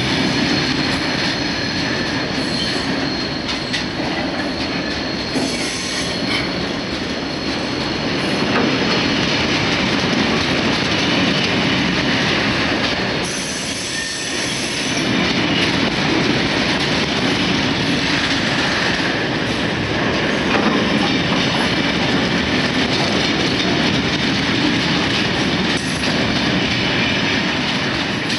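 Freight train of tank wagons passing close at speed: loud, steady noise of steel wheels rolling over the rails, running on without a break.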